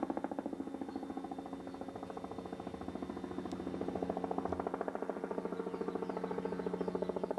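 Helicopter flying overhead, its rotor making a fast, even chop over a steady engine drone.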